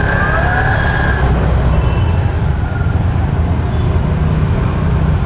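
Motorcycle riding through city traffic: a steady, loud low rumble of engine and road noise. A high steady tone stops about a second in.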